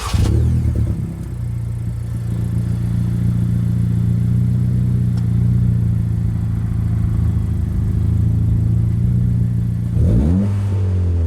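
Acura Integra's 1.5-litre turbocharged four-cylinder running through an Invidia N1 cat-back exhaust, holding a steady engine note for about ten seconds, then revving up briefly and falling back near the end.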